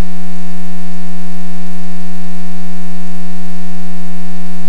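Loud, steady electrical hum with a buzzy stack of overtones, holding one unchanging pitch and drowning out everything else, as picked up in an aircraft's intercom and radio audio feed.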